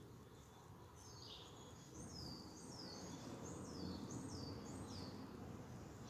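A bird calling in a run of short, high, downward-sliding chirps, about two a second, starting about a second in, over faint low wind noise.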